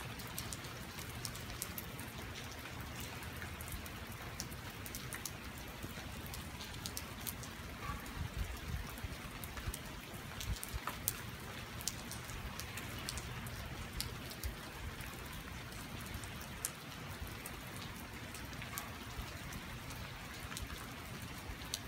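Steady rain falling on pavement, parked cars and trees, with many individual drops ticking sharply through the steady hiss.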